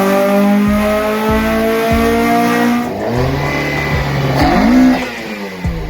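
Car engines at high revs, pitch climbing steadily under acceleration for about three seconds. Then an abrupt change to another engine that drops in pitch and climbs again, like a gear change.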